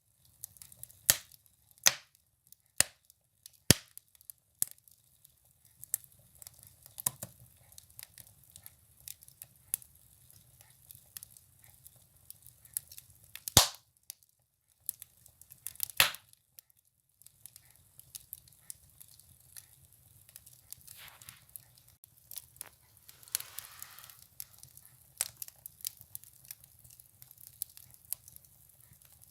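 Firewood burning in a wood stove: irregular sharp crackles and pops, the loudest about halfway through, over a faint low rumble, with a brief soft hiss near the end.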